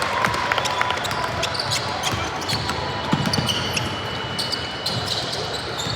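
Basketball game on an indoor court: a ball bouncing, with many sharp scattered knocks and a few brief squeaks over steady gym noise.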